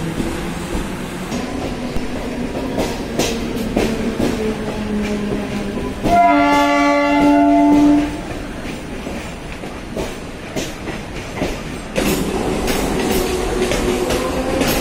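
Mumbai suburban electric local train running with a steady rumble and wheels clacking over the rail joints. About six seconds in its horn sounds once for about two seconds, the loudest sound here. Near the end a motor whine comes in and slowly rises in pitch.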